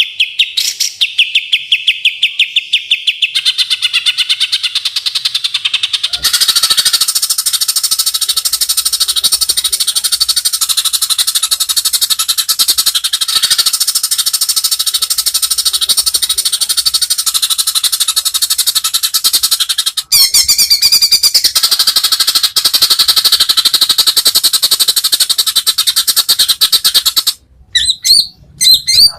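White-rumped shama (murai batu) singing. It opens with a fast rattling run of repeated notes, then from about six seconds pours out dense, continuous high song. The song breaks off briefly near two-thirds of the way through and stops and starts again near the end.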